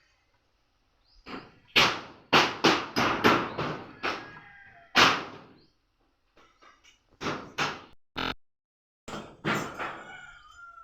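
Hammer blows in irregular runs: a quick series of about six strikes, then single strikes, then a few more near the end.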